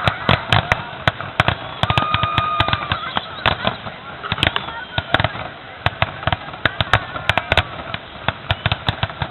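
Fireworks going off in a rapid, irregular string of sharp bangs and crackles, often several within half a second.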